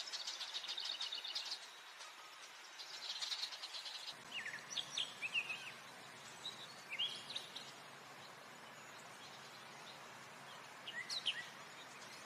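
Small birds chirping: two quick high trills in the first few seconds, then scattered short sweeping chirps and whistles. A faint low background noise sets in about four seconds in.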